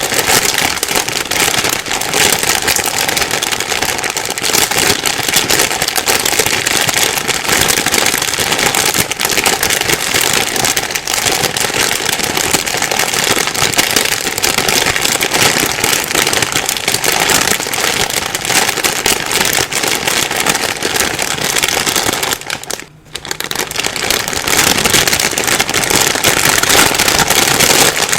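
Plastic bag rustling and crinkling continuously, a dense crackle of small crumples, with a brief pause about 23 seconds in.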